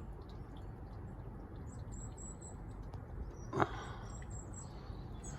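Small birds chirping outdoors in short high chirps, in scattered groups over a steady low background rumble. A single brief click or tap comes about three and a half seconds in.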